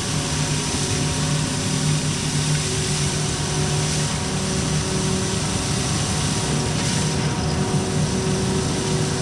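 Steady drone of running machinery, a low hum with a fainter higher tone, holding at an even level.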